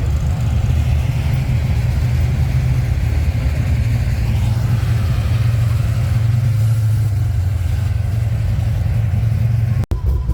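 Car engine idling close by, a loud, low, steady note, broken off for an instant near the end.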